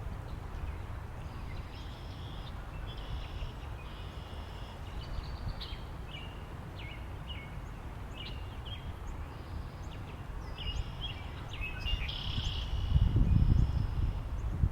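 Birds chirping in many short, high notes over a steady low rumble of wind, which swells in a stronger gust near the end.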